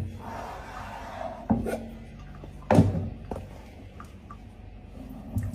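A few sharp knocks or thumps over a low steady hum, the two loudest about a second and a half in and just under three seconds in.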